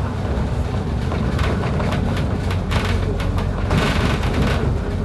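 A vehicle travelling in heavy rain: a steady low rumble of engine and road, with irregular surges of hiss from rain and spray.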